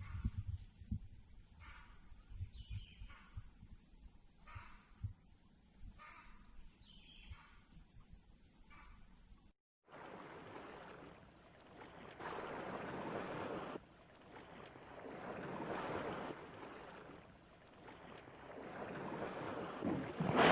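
Outdoor nature ambience: a steady high insect drone with short descending bird calls repeating about once a second. About halfway through it cuts abruptly to a rushing noise that swells and fades every couple of seconds.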